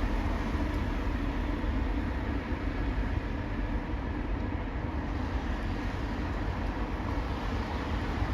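Steady low rumble of heavy engines with a faint steady hum and no distinct events.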